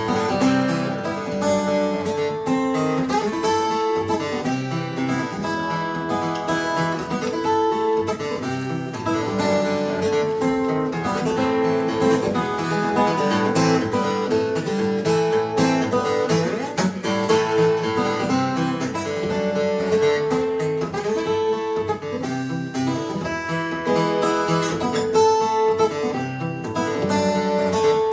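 Acoustic guitar playing an instrumental passage of picked notes over a repeating bass line, with no singing.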